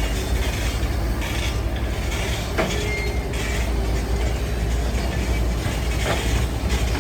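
Heavy diesel construction machinery running steadily with a deep rumble, with occasional metallic knocks and a brief faint squeal.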